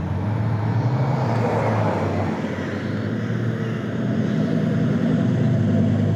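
V8 car engine running at low revs with a steady low rumble as a car rolls in slowly, swelling slightly in the second half.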